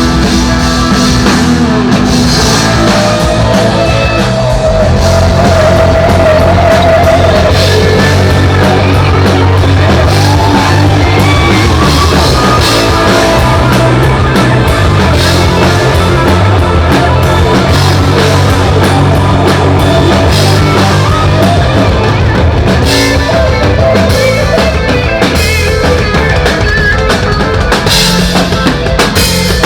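Rock band playing loud through a stage PA during a sound check: drum kit, bass and electric guitar together, with the drums standing out more towards the end.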